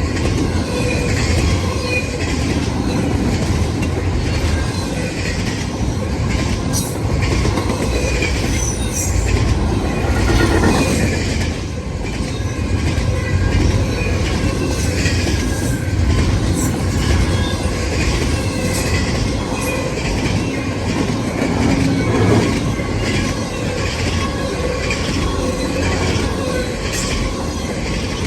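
Intermodal freight train cars rolling past at speed: a steady rumble with the clicking of wheels over rail joints.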